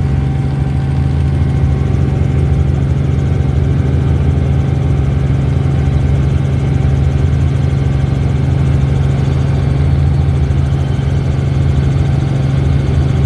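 Helicopter engine and rotors running, a loud steady drone that holds one constant pitch.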